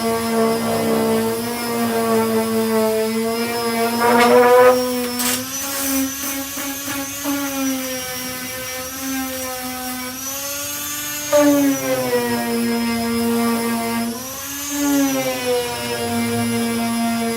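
Power sander fitted with a 240-grit disc running steadily on body filler. Its motor whine dips briefly in pitch a few times as it is pressed into the work, then recovers.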